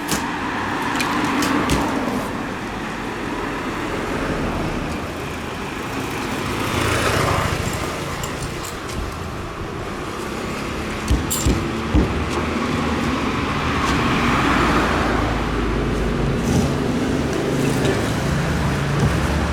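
Road traffic with vehicles passing by over a steady low engine hum. Two passes swell up and fade, and a few sharp knocks come about eleven and twelve seconds in.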